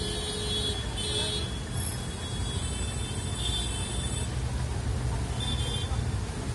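Traffic jam: vehicle engines running in a steady low rumble, with horns tooting on and off through the first few seconds and again briefly near the end.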